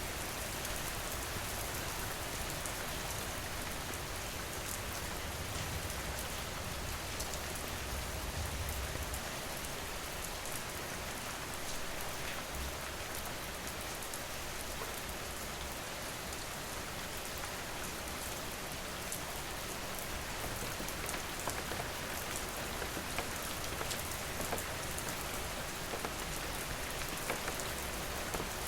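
Steady rain falling, with individual drops ticking sharply on a hard surface.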